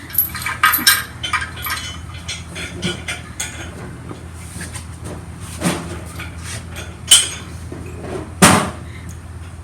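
Metal tools and hardware clinking and clanking. A quick run of clicks comes in the first second, then scattered knocks, and three louder single clanks in the second half.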